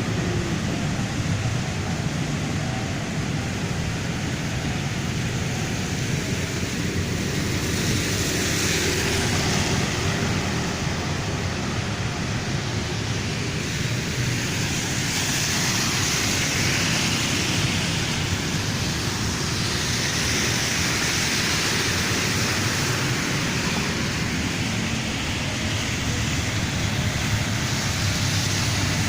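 Road traffic on a rain-wet road: a steady rumble of engines under the hiss of tyres on water, swelling as vehicles pass, loudest a few seconds in and again through the middle of the stretch.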